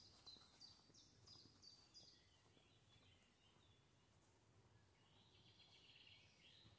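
Near silence with faint birdsong: a run of about six short, high, falling notes over the first two seconds, then a softer buzzy phrase near the end.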